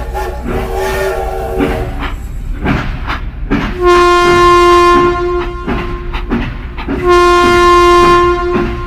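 Toy train set running, with a steady rumble and regular clicking of wheels on track. Two long horn blasts sound, one about four seconds in and one about seven seconds in, and they are the loudest part.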